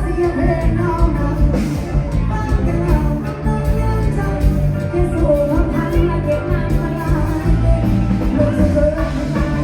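Loud live bar-band music with a singer and a heavy bass.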